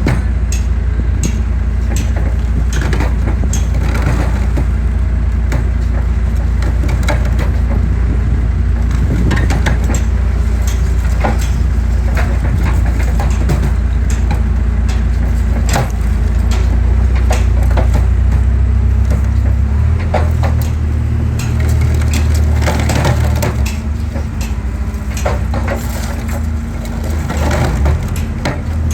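Excavator's diesel engine running steadily while concrete cracks and crunches irregularly as the machine crushes a concrete pillar. The engine note shifts about twenty seconds in.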